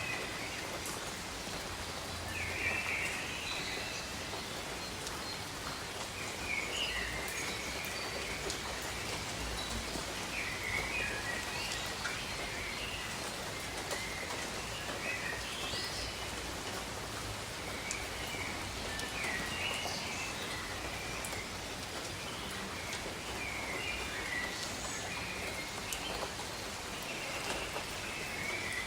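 Steady rain falling, with birds chirping in short bursts every two or three seconds over it.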